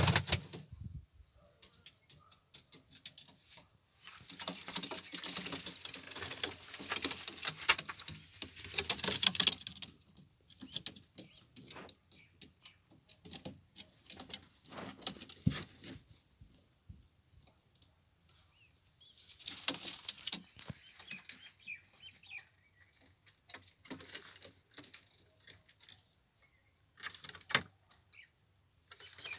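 Pigeons flapping their wings: a long burst of rapid wingbeats a few seconds in, a shorter one about two-thirds of the way through, and scattered clicks and rustles between.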